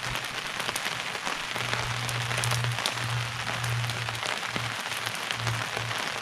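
Steady rain falling, with many small drop hits close by, and music with a low bass line coming and going underneath.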